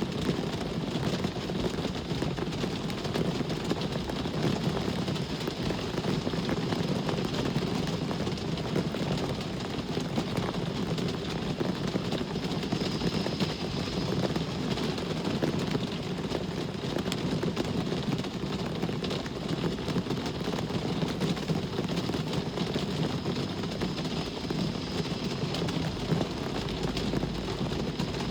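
Steady rain falling, mixed with the continuous sound of road traffic.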